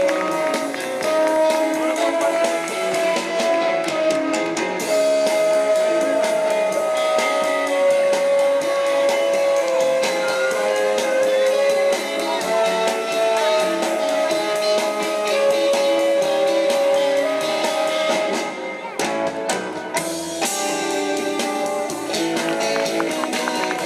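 Band music with guitars and a drum kit, led by a melody of long held notes that step up and down in pitch. The sound thins out briefly about three quarters of the way through, then carries on.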